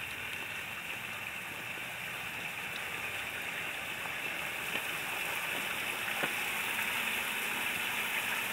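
Steady hiss of falling rain, growing slightly louder in the second half, with a few faint ticks.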